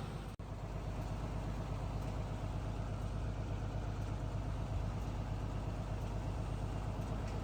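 Diesel engine of a Seagrave Attacker fire pumper idling with a steady, even low rumble. The sound drops out for an instant near the start.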